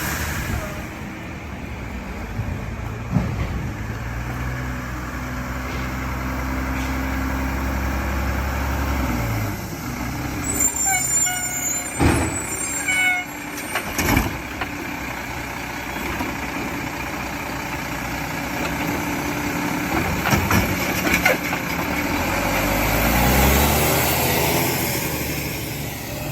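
Mack garbage truck's diesel engine running and revving, with squeals and a series of sharp knocks in the middle and the engine rising again near the end.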